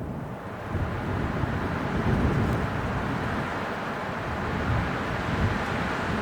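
Strong winter wind blowing in gusts, with a deep rumble under a rushing hiss; it swells about a second in.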